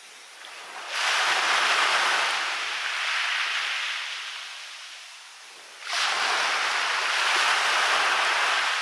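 Waves breaking on a beach: two waves crash, the first about a second in and the second about six seconds in, each surge of surf rising sharply and then washing back and fading.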